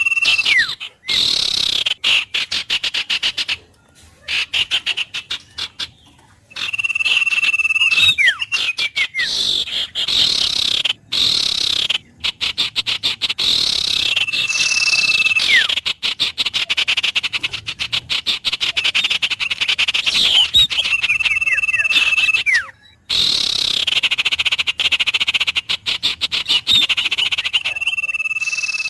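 Frogs and birds calling together: rapid pulsing calls with steady bird whistles and short falling notes. The chorus breaks off for brief gaps several times.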